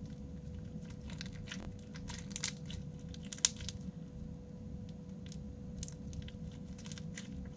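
Crunchy slime with beads mixed in being kneaded and squeezed by hand: scattered crackles and clicks of the beads, with a couple of sharper crunches about two and a half and three and a half seconds in.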